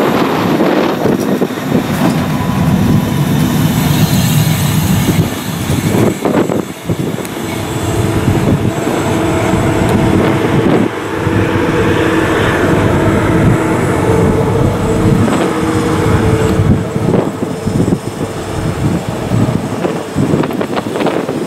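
Electric trains running on the line, among them a DR class 243 electric locomotive hauling passenger coaches: a steady rumble of wheels on rails with a humming tone through the middle.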